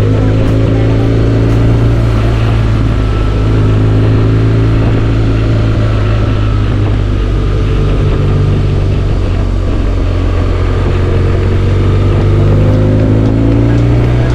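Motorcycle engine running at road speed with road noise while riding. The engine note dips just after the start and climbs steadily near the end as the bike speeds up.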